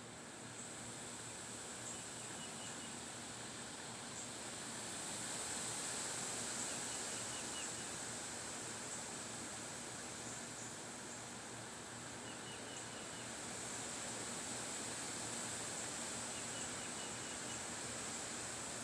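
Wind blowing outdoors, rising in two slow gusts, over a steady high-pitched insect buzz, with brief chirps recurring every few seconds.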